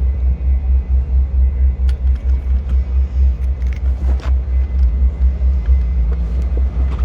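Deep bass from a car's subwoofer sound system, pulsing evenly about three times a second and loud, with almost nothing above the low bass.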